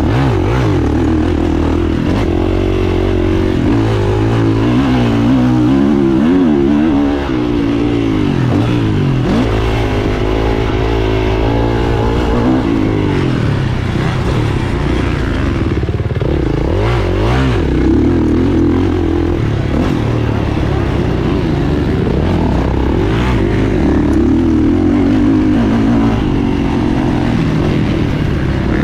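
Kawasaki KX450F four-stroke single-cylinder motocross engine running hard, its pitch rising and falling over and over as the throttle opens and closes through the ride.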